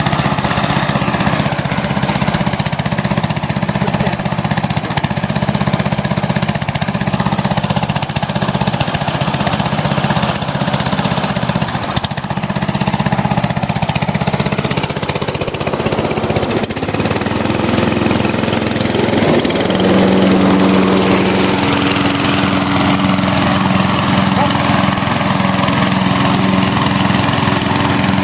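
Riding lawn mower's 12.5 hp Briggs & Stratton engine, rebuilt from a donor motor, running steadily under way. About twenty seconds in its note changes to a smoother, steadier hum.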